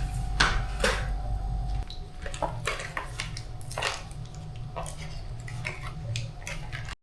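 A series of light clicks and knocks from small hard objects being handled, over a low steady hum that drops in level about two seconds in.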